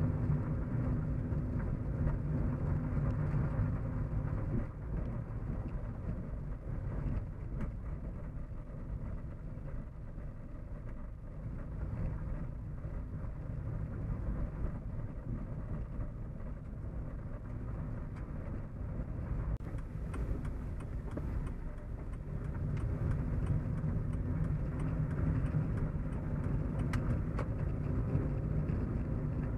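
Interior hum of a car on the move: steady low engine and tyre-on-road drone that eases slightly in the middle and swells again in the last third.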